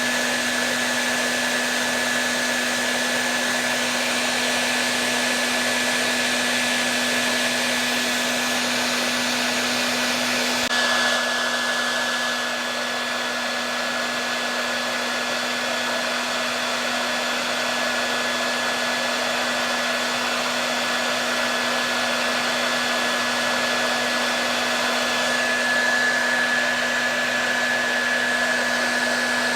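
Hair dryer running continuously: a steady rush of air over a low motor hum and a thin high whine. Its hiss shifts slightly about eleven seconds in.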